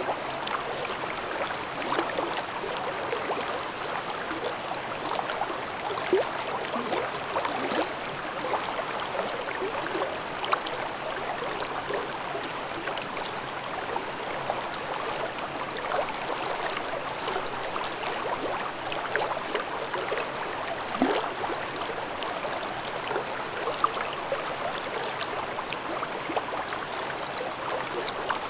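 Mountain stream babbling and gurgling steadily over rocks, with many small splashes.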